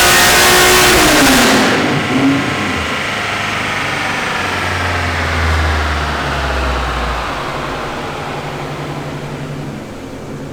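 Honda J35A4 V6 at full throttle on a chassis dyno at the end of a fifth-gear pull: loud at first, it lets off about a second and a half in and the revs fall away steadily as it coasts down on the rollers.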